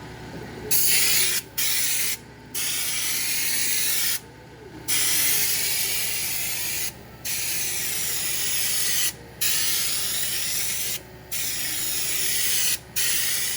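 Compressed-air spray gun spraying bed liner: a loud hiss in about eight bursts of one to two seconds each, broken by short pauses as the trigger is let off. A steady low hum runs underneath throughout.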